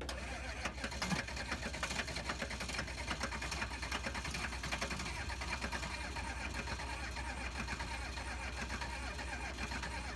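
Starter motor cranking a 1986 GMC's 6.2L V8 diesel with a steady, rapid chatter. The engine does not catch: it is a hard start after two years of sitting.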